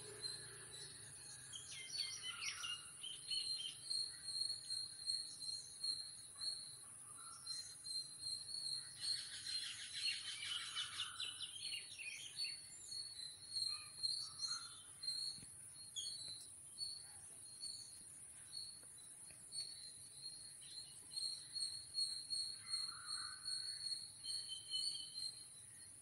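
Jungle babblers calling with short chirps, and a burst of harsh rapid chattering about nine seconds in that lasts some three seconds, over a steady high-pitched insect drone.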